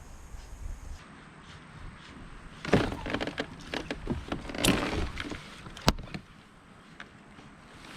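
A run of sharp knocks and clattering, starting a little under three seconds in, with a single sharp crack about six seconds in.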